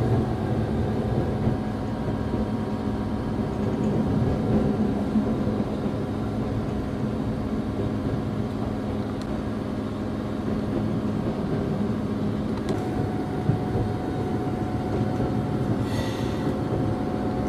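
Regional train rumbling steadily as it runs into a station, heard from inside the carriage, with a steady low hum; a higher steady tone joins about thirteen seconds in.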